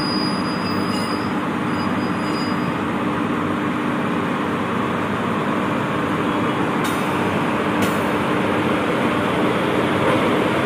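Steady running noise of a train: an even rushing sound with a low hum underneath, unchanging throughout.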